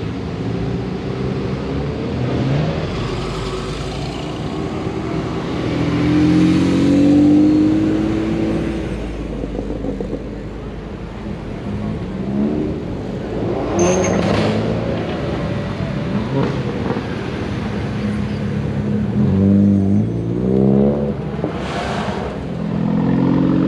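Car engines running at a car show, revved up several times with rising pitch.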